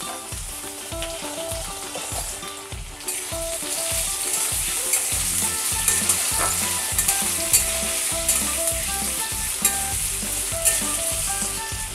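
Cubed potatoes frying in hot mustard oil in a metal kadai, a steady sizzle. Partway through, a metal spatula stirs and turns them, knocking and scraping against the pan.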